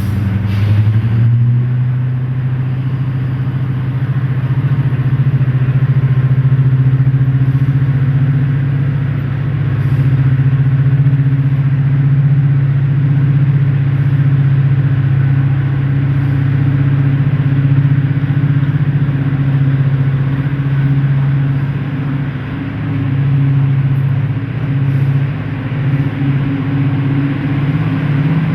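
Class 55 Deltic diesel locomotive's Napier Deltic two-stroke opposed-piston engines running. Their note rises about a second in and then holds as a loud, steady drone.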